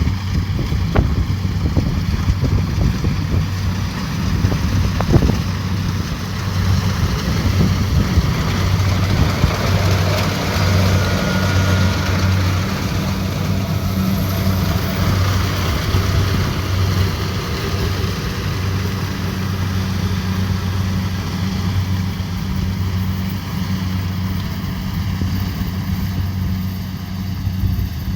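Kubota DC70 Pro combine harvester running steadily: a constant low diesel engine hum under an even hiss of machinery.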